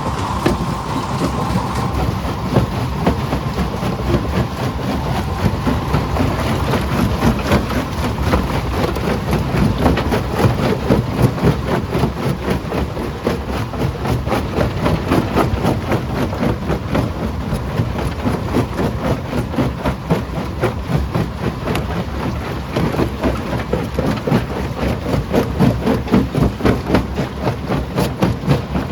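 Primary jaw crusher running and crushing rock: a steady heavy machine drone under continuous clattering and knocking of stone.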